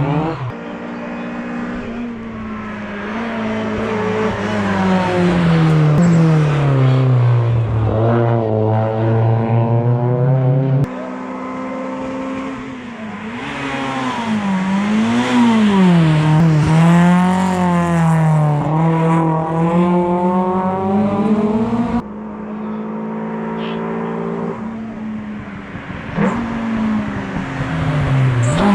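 Hill-climb race cars running hard, engines climbing and falling in pitch as they accelerate, shift and brake for corners while passing. It comes as three separate clips, with abrupt changes about 11 and 22 seconds in.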